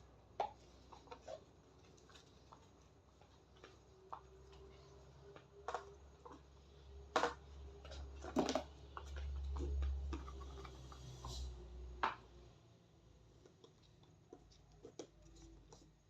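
Scattered light clicks and knocks of vegetables and containers being handled and packed away, with a low rumble swelling in the middle and a few louder knocks.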